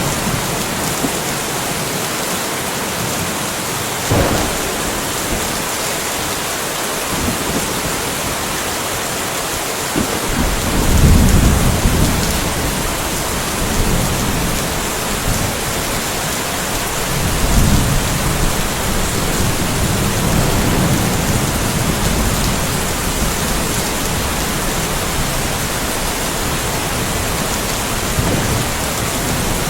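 Steady rain hissing throughout. There is a sharp thunder crack about four seconds in, then low rolling thunder rumbles from about ten to twelve seconds and again from about seventeen to twenty-two seconds.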